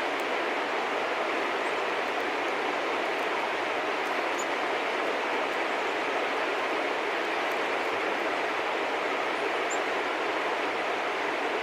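Steady, even rushing background noise, with two faint, high, short bird chirps: one about four seconds in and one near the end.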